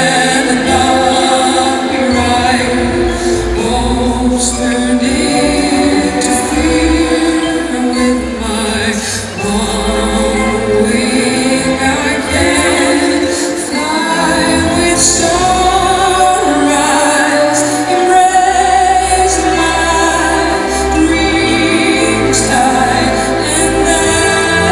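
Female singer performing a slow song live with orchestral accompaniment.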